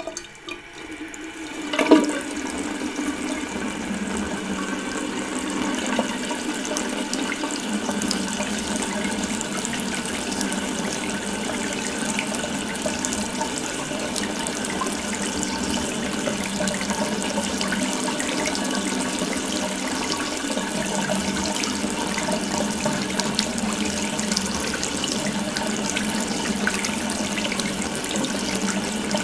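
Water running from an open faucet, building up over the first two seconds with a brief sharp sound about two seconds in, then flowing steadily.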